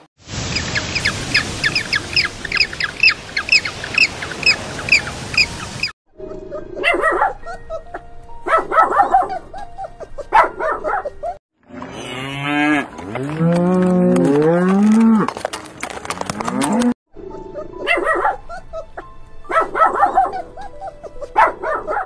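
Cows mooing: several long moos that rise and fall in pitch, about halfway through. Before them comes a steady rush like surf, under a fast string of high repeated calls. Short scattered bursts of sound follow the moos.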